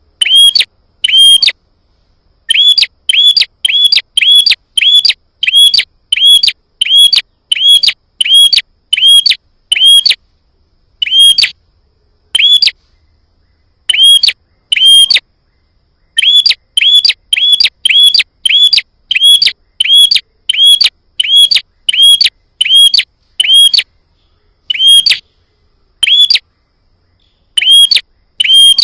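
Prenjak songbird calling: a fast series of short, sharp, identical chirps, about three a second, in runs broken by short pauses.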